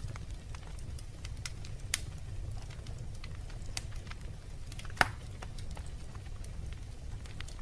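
Wood fire crackling in a fireplace: a steady low rumble of the flames with scattered small crackles, and two sharper pops about two and five seconds in, the second the loudest.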